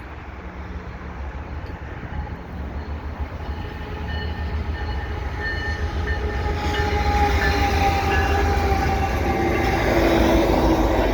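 Diesel freight train approaching, led by a GE AC4400CW locomotive, its engine and running sound growing steadily louder with a few steady tones rising over the rumble. Wind buffets the microphone throughout.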